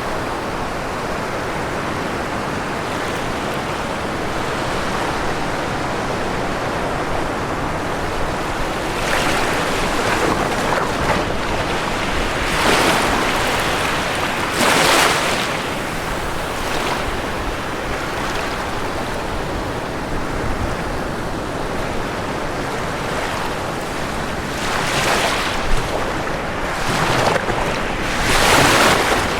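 Ocean waves breaking on a shore over a steady background of surf. Several louder wave crashes come and go, around 9 to 15 seconds in and again near the end.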